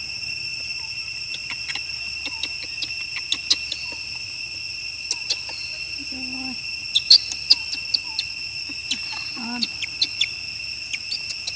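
Steady high-pitched insect chorus, with scattered sharp clicks throughout, the loudest of them about seven seconds in.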